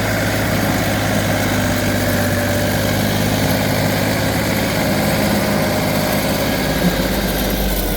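Same Minitaurus 60 tractor's three-cylinder air-cooled diesel engine running at a steady speed.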